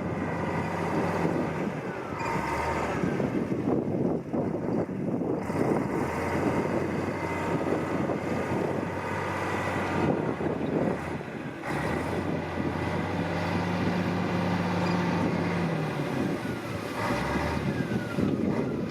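Heavy earthmoving machinery working: a diesel engine runs steadily under dense clattering and knocking of metal and rock. The engine note drops out for a moment around ten seconds in, then comes back.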